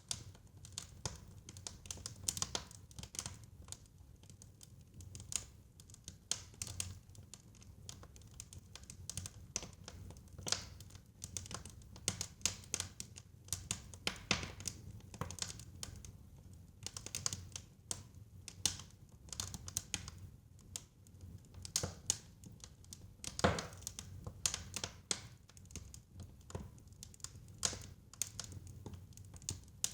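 Wood fire crackling in a fireplace: irregular snaps and pops over a low, steady rumble, with one louder pop about two-thirds of the way through.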